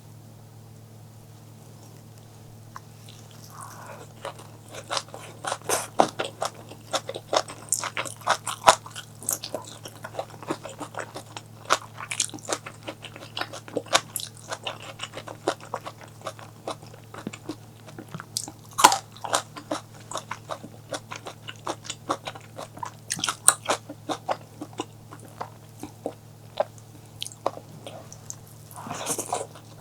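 Close-miked eating sounds: crunchy biting and chewing with many crisp clicks and crackles, starting about four seconds in, over a low steady hum.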